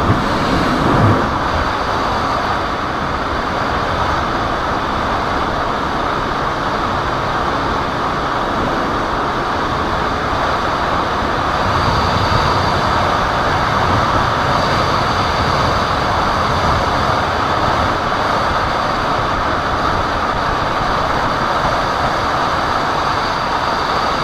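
KTM motorcycle running at high speed, a steady rush of wind noise over the engine, swelling slightly about halfway through.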